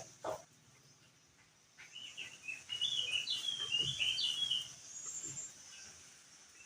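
Crested white-eye (opior jambul) singing: a quick twittering run of short, high chirps that starts about two seconds in and lasts a couple of seconds.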